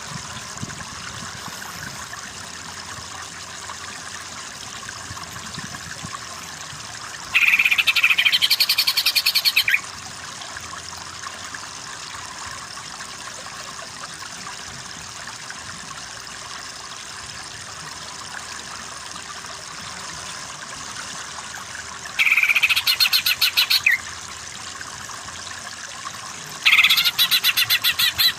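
Cucak ijo (green leafbird) singing in three bursts of fast, evenly repeated high notes, each about two seconds long, over a steady background hiss.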